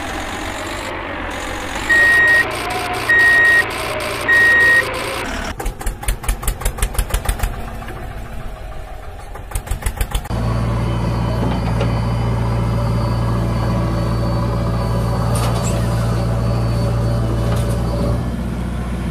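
Heavy vehicle engine running with three short reversing beeps, then chugging in rapid pulses, about five a second, like an engine cranking, before settling into a steady low run.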